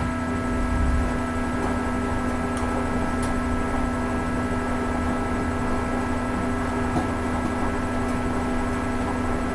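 Hoover Ecologic 800 automatic washing machine running its rinse cycle: a steady motor hum over a low rumble from the drum, which swells briefly about a second in, with a few faint ticks.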